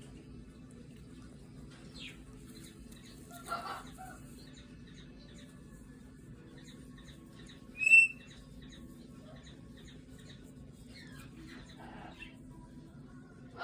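Umbrella cockatoo giving a single short, sharp, high-pitched chirp about eight seconds in, with a softer vocal sound a few seconds earlier and faint small chirps over a steady low hum.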